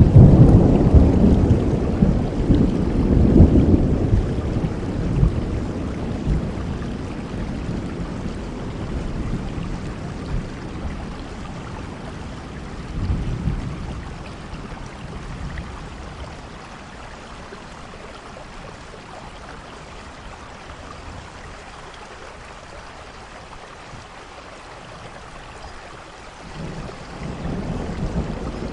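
Thunder rumbling over steady rain. A loud deep roll of thunder fades away over the first several seconds, a smaller rumble comes about halfway, and then only the rain hiss remains until thunder starts building again near the end.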